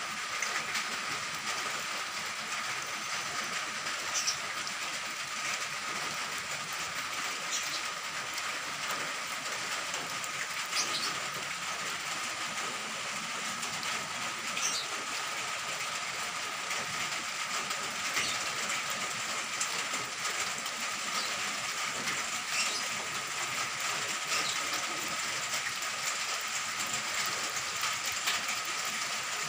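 Steady rain falling, a continuous even hiss, with a steady high tone underneath and a few brief high chirps scattered through.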